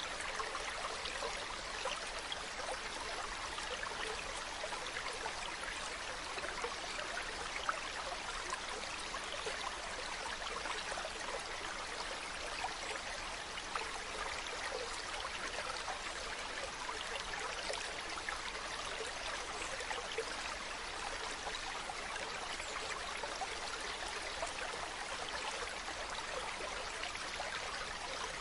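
Mountain stream running steadily over rocks, a continuous babbling rush with many small splashes.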